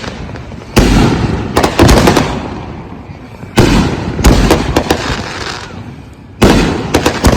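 Consumer aerial firework cakes going off: a string of sharp booms, some single and some in quick clusters of two or three, each trailing off in echo.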